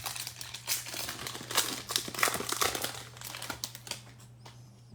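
Plastic wrapper of a basketball card value pack crinkling as it is opened. Dense, irregular crackling that dies away near the end.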